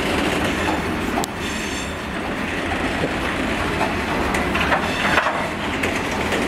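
Freight train of bogie hopper wagons rolling past: a steady, loud rumble of steel wheels on rail, with wheels clacking over the rail joints.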